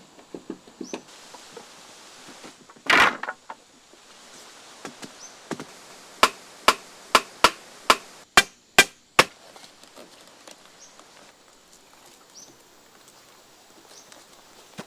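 Wood being struck by hand with a tool: a heavier thump about three seconds in, then a run of eight sharp, even strikes at a little over two a second.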